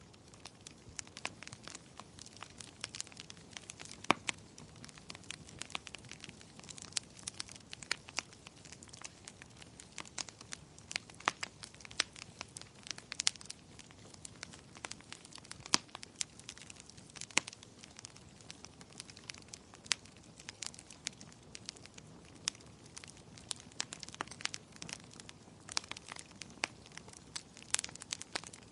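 Wood fire crackling, with irregular sharp pops and snaps several times a second, over a steady soft hiss of gentle rain.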